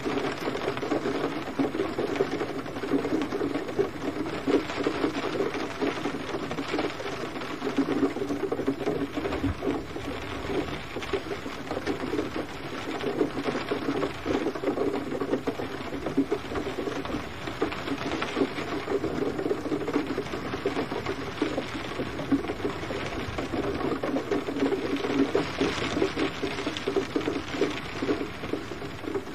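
Gentle rain falling steadily, a dense patter of many small drops that swells and eases a little every few seconds.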